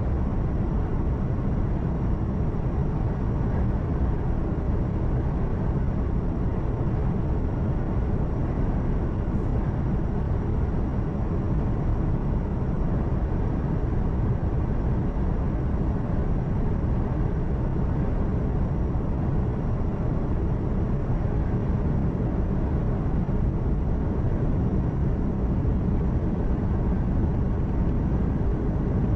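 Steady low rumble of a truck's engine and tyre and road noise heard from inside the cab at cruising speed, with no change through the stretch.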